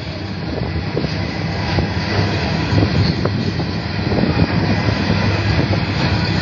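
Empty coal hopper wagons rolling past at speed, wheels clattering and clicking over the rail joints over a steady diesel drone. The drone grows a little louder in the second half as the 82 class diesel locomotive pushing at the rear of the train approaches.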